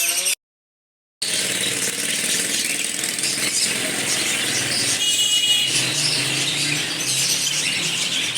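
Many caged parrots chattering and squawking together, with one clear shrill squawk about five seconds in. The sound cuts out completely for under a second near the start.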